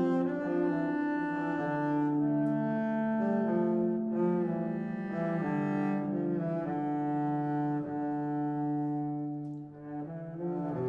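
Background music: slow, sustained bowed string lines, with cello and double bass in the low part, notes held and changing about once a second.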